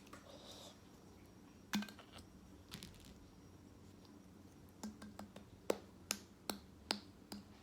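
Close-up mouth sounds of someone eating instant beef noodles: faint sharp wet clicks and smacks. A few come in the first half, then a steady run of them about two a second in the second half, in time with chewing.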